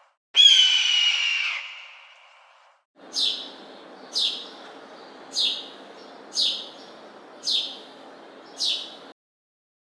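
Recorded bird calls: one loud call that falls slightly in pitch and fades out, then, after a short gap, six sharp chirps that sweep downward, about one a second, over a light background hiss.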